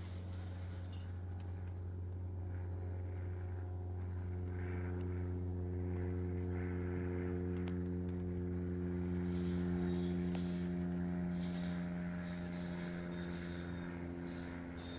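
Cessna 172 single-engine propeller plane droning steadily overhead in a flyover, growing louder to a peak about ten seconds in and then slowly fading.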